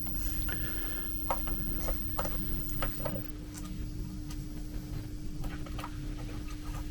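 Scattered small clicks and taps as the screws of a 3D printer's metal shipping bracket are undone and the parts handled, over a steady low hum.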